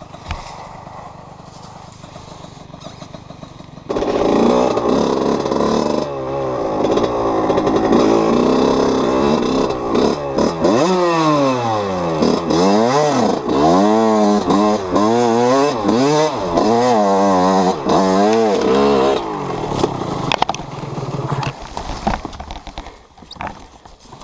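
Enduro dirt-bike engine, running quietly at first, then loud from about four seconds in and revving up and down over and over in quick sweeps as it struggles up a steep climb. The engine sound falls away near the end as the bike ends up on its side on the slope.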